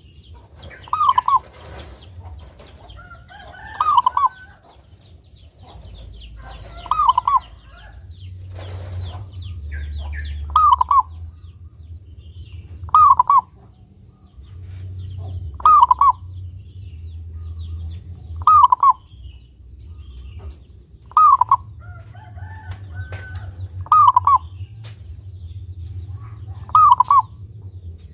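Zebra dove (perkutut) cooing in short repeated phrases, about one every two to three seconds, over a low background rumble.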